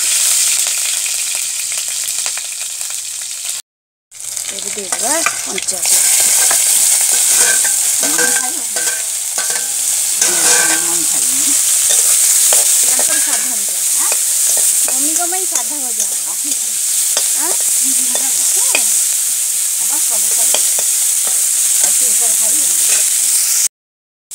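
Chopped onions and green chillies sizzling in hot oil in an iron kadhai, stirred with a metal spatula; a steady hiss with small crackles, cut off briefly about four seconds in and again near the end.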